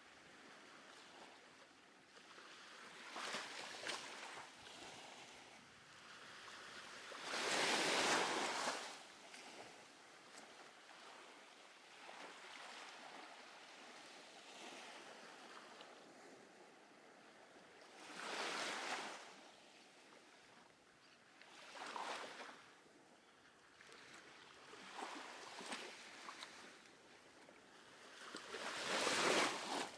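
Small ocean waves breaking and washing up on a sandy beach in a light breeze, coming as separate surges every few seconds. The loudest come about 8 seconds in and just before the end.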